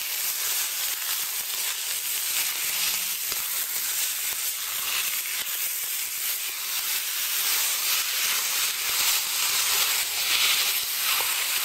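Ground pork and chopped garlic sizzling in hot oil in a wok, a steady hiss, with occasional soft scrapes of a spatula working through the meat.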